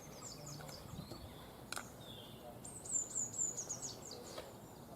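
Small birds singing: runs of short, high, falling chirps, the loudest run about three seconds in. A few light clicks and knocks from gear being handled.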